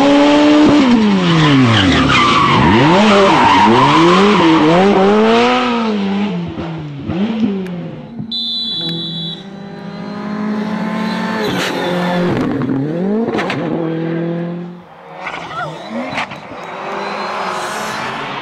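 Rally car engine revving hard, its pitch climbing and dropping again and again through quick gear changes and lifts off the throttle. The sound changes abruptly about eight seconds in, with a brief steady high tone, and again near fifteen seconds.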